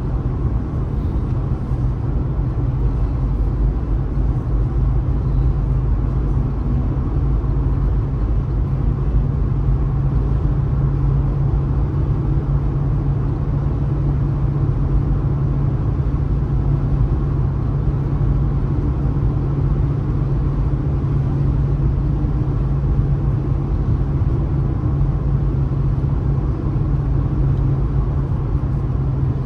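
A car driving, with a steady low rumble of engine and road noise that holds even throughout.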